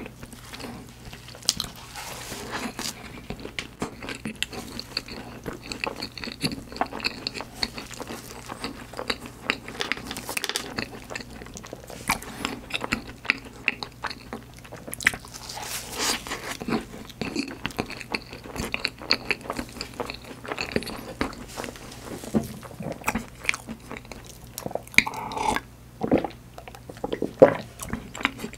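Close-up chewing and biting of soft cream-filled choux puffs (profiteroles) topped with white chocolate, chocolate chips and sliced almonds: wet mouth sounds with small crunches from the topping, going on without a break.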